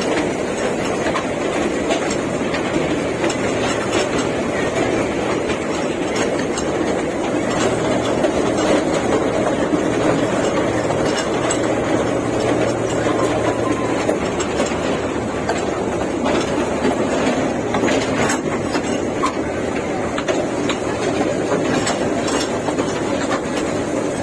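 Park toy train running along its track: a steady rumble of wheels on rail with a low hum underneath and a few scattered clicks.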